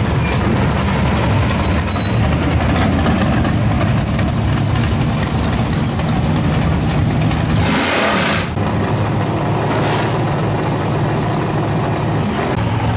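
Drag-car engines running at idle with a steady rumble, with a short loud hiss about eight seconds in.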